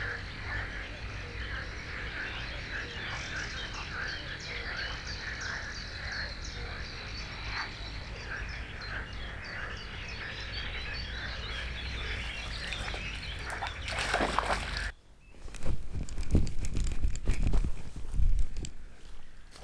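Frogs croaking in a chorus of rapid, repeated short calls. In the last few seconds, loud close rustling and knocks cut in over it.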